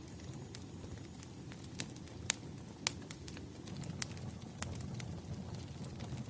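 Wood fire crackling: irregular sharp pops over a steady low rumble of burning logs, the loudest pops about two and a half and three seconds in.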